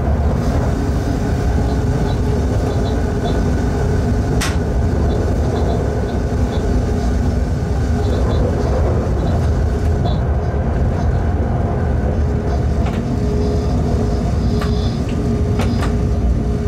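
Steady running noise of a locomotive heard from inside its cab as it runs through a short tunnel: wheels rolling on the rails with a steady hum from the machinery. A sharp click comes about four seconds in, and a few more near the end.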